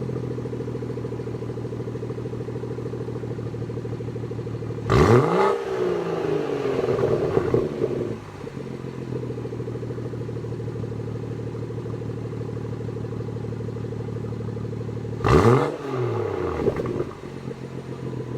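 BMW 340i's 3.0-litre turbocharged inline-six idling steadily through its exhaust with the exhaust valve open. The throttle is blipped twice, about five seconds in and again near fifteen seconds. Each time the revs shoot up sharply and fall back to idle over two to three seconds.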